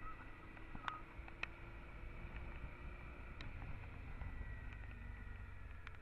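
Muffled, steady low rumble of a Honda Transalp XL650's V-twin engine, with a few sharp ticks scattered through it.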